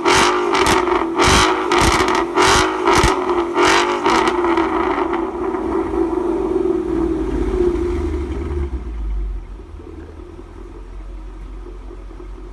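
Ford Mustang GT's 5.0 Coyote V8 through a Corsa Xtreme catback exhaust, held at redline with a pulsing stutter about twice a second. The revs then fall away, and the engine settles to a low idle rumble about nine seconds in.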